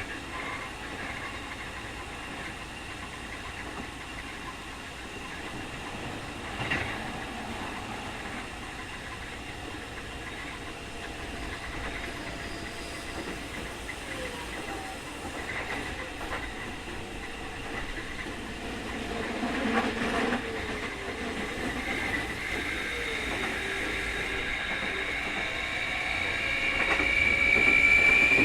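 Running sound heard from inside a Keikyu 2000 series field-chopper electric train car, with occasional knocks from the wheels on the rails. A high whine rises in pitch and grows louder toward the end. This is the abnormal 'jet sound', unusually strong on this car.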